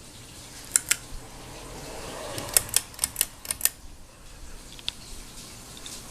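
Hunter Santa Barbara ceiling fan running with a steady low hum, with sharp clicks: a pair about a second in, a quick run of about six a little before the middle, and one more near the end.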